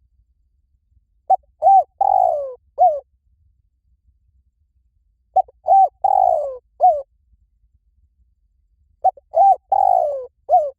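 Spotted dove cooing its call three times, about four seconds apart. Each phrase is two short coos, a longer coo that falls in pitch, then a short closing note.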